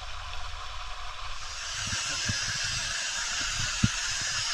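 Steady rush of river water in a canyon, growing louder and brighter about a second and a half in, with low thumps and a single sharp click near the end.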